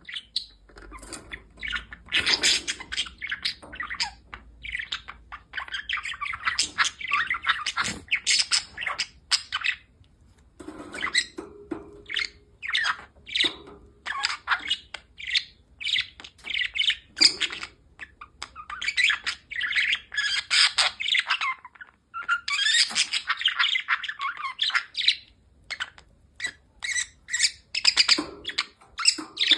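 Budgerigar chattering and warbling in bouts of rapid, varied notes lasting a few seconds each, broken by short pauses.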